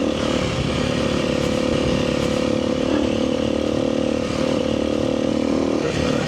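Kawasaki KLX300R dirt bike's single-cylinder four-stroke engine running at fairly steady revs while riding a trail.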